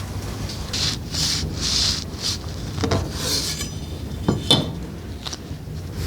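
Irregular scraping or rubbing strokes, about one every half second, with a couple of sharp knocks about four and a half seconds in.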